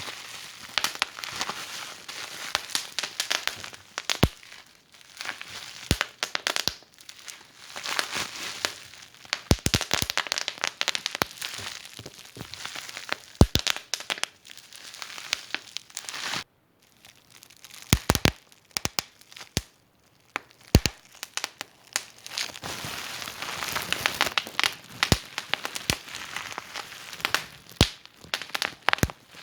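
Wood fire in a fireplace crackling, with frequent irregular snaps and pops over a soft hiss. The sound briefly drops away about halfway through.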